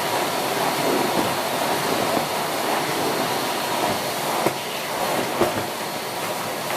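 Siemens Z6.0 2500 W bagged cylinder vacuum cleaner running steadily on its second suction level, its standard combination floor head being pushed over the floor, with a couple of brief knocks about four and five seconds in.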